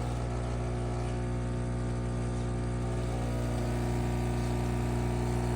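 Philips fully automatic espresso machine running with a loud, steady, even hum.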